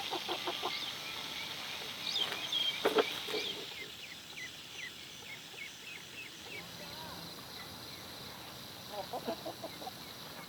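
Chickens calling in short clucking bursts, with a run of small high peeps in between, over a steady high hiss of insects.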